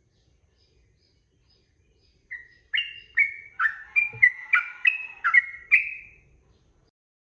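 Sooty-headed bulbul (trucukan) singing one phrase of about ten quick whistled notes, starting about two seconds in and ending about a second before the end.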